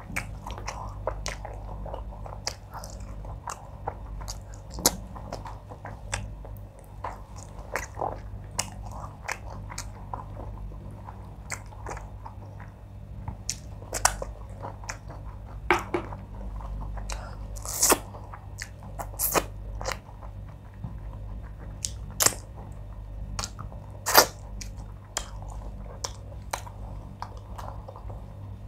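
Close-miked mouth sounds of a person chewing and swallowing mouthfuls of wheat fufu and oha soup with fish: wet smacks and many sharp clicks, with the loudest ones in the second half.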